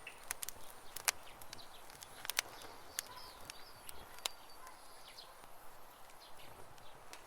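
Campfire crackling, with irregular sharp pops over a faint steady hiss; the loudest pops come about a second in and around two and a half seconds in. Birds chirp with short high calls in the background.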